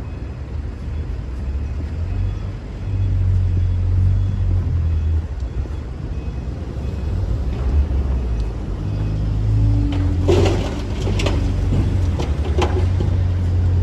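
Excavator's diesel engine running, swelling and easing as it works under load. A cluster of sharp knocks and scrapes comes about ten seconds in.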